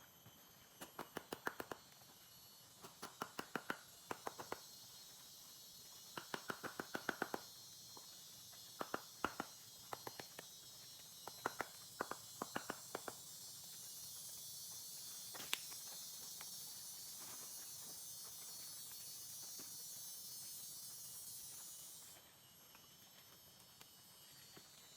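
A high, steady insect hiss that swells and then cuts off abruptly near the end. Over it, in the first half, come several quick runs of sharp clicks, each run about five to eight clicks fast.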